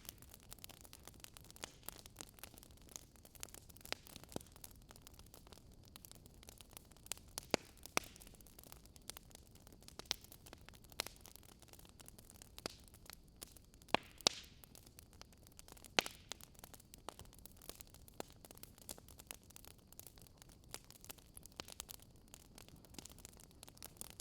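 Campfire crackling: a steady soft hiss with irregular sharp pops and snaps of burning wood, a few louder ones in the middle.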